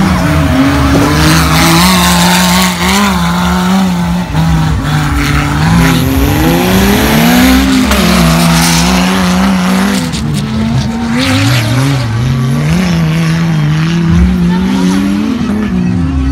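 Off-road 4x4 race car engine revving hard, its pitch climbing and dropping again and again over several throttle changes.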